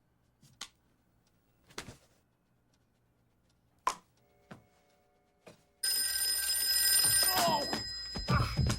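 A few faint, scattered clicks and knocks, then, about six seconds in, a telephone bell starts ringing loudly and keeps ringing.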